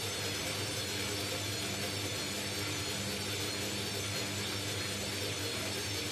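Indesit mini washing machine spinning: a steady motor hum and high whine over a rumble from the drum, the sound of bad drum bearings.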